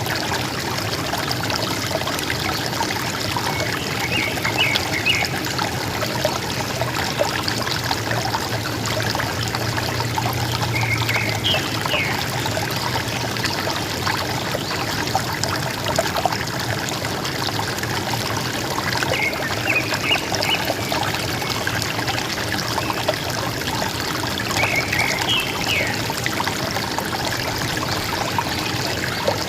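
River water flowing and gurgling steadily, with a forest bird giving a short call of a few quick notes four times, several seconds apart.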